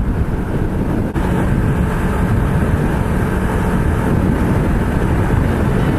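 Honda CBR250RR motorcycle under way: wind rushing over the microphone with the engine running steadily underneath.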